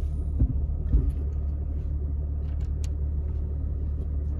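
Jeep Cherokee XJ's 4.0-litre straight-six idling, a steady low rumble heard from inside the cabin, with two soft knocks about half a second apart near the start.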